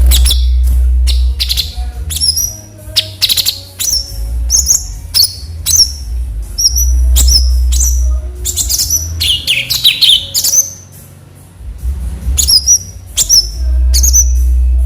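Cucak cungkok songbird calling in quick runs of sharp chirps and short whistled notes, many with a quick falling twist. A low rumble underneath comes and goes.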